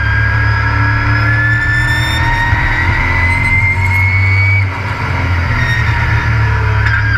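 Race truck engine heard from on board under acceleration, its note climbing steadily, dipping briefly about four and a half seconds in, then climbing again near the end.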